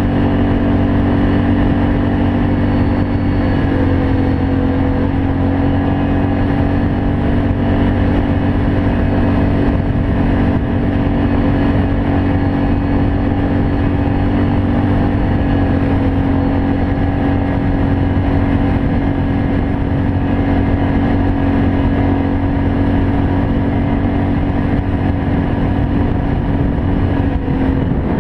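Can-Am Outlander 500 ATV's Rotax V-twin engine running through an aftermarket Yoshimura exhaust, held at steady revs. Its pitch shifts slightly a few seconds in and again about halfway through.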